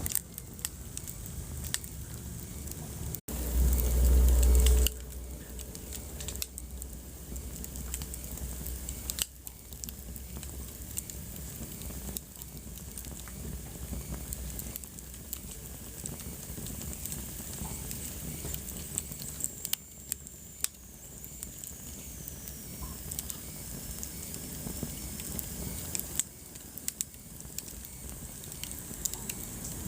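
Wood fire burning in a fireplace, crackling steadily with scattered small pops and snaps over a soft hiss. A deep low rumble comes about three seconds in and lasts about a second and a half. Around twenty seconds in a faint high whistle slowly drops in pitch.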